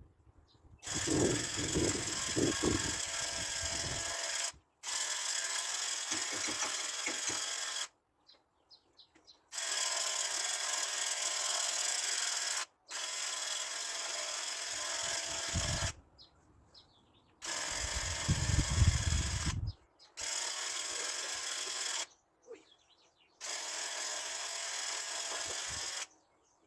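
Paint sprayer hissing in repeated bursts of two to three seconds each, about seven in all, with short silent breaks between as the spray is stopped and restarted.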